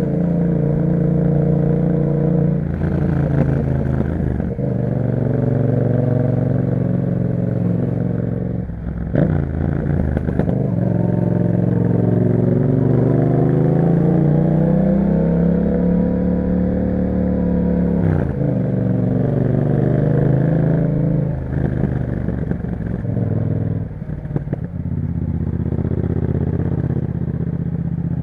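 A Yamaha MT-07's 689 cc parallel-twin running through an aftermarket Akrapovic exhaust while the bike is ridden. Its pitch climbs and falls as the throttle opens and closes, with several sudden drops between pulls, the longest climb running through the middle.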